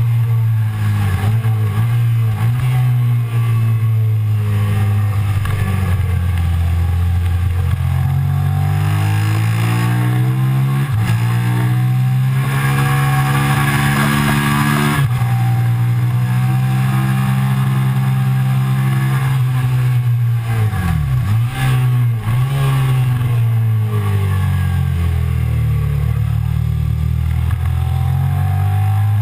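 Suzuki SV650's V-twin engine heard from on board at racing speed: the revs climb steadily through each gear and drop off sharply at the gear changes. Near the middle the wind rush is strongest just before the revs fall away. About two-thirds of the way through the revs drop hard and dip twice, as when braking and changing down.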